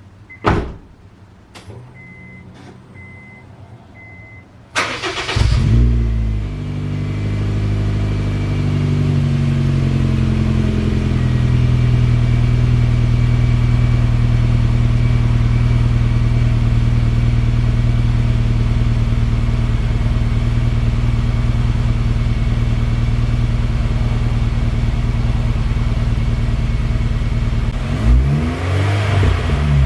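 Cold start of a Honda Fit GE8's 1.5-litre four-cylinder through a newly fitted muffler. After a few clicks and faint beeps, the engine cranks and catches about five seconds in, then settles into a steady, loud fast cold idle. Near the end the throttle is blipped a couple of times, and the revs rise and fall.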